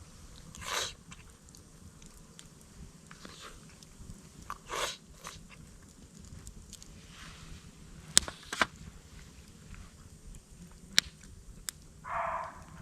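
A person eating: a few short crunching chews spaced a few seconds apart, with several sharp clicks in between.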